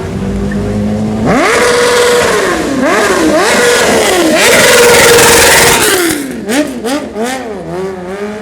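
Sport motorcycle engine idling, then revved hard about a second in. The revs climb and drop several times as it accelerates, are loudest a little past the middle, then fall back with short throttle blips and a few sharp pops near the end.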